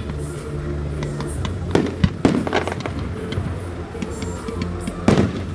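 Fireworks going off, with sharp bangs and crackles about two seconds in and again near the end, over background music with a steady bass line.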